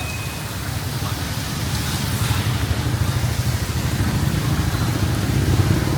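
Motorbike engine running with a low pulsing note that grows slowly louder, over a steady hiss of rain.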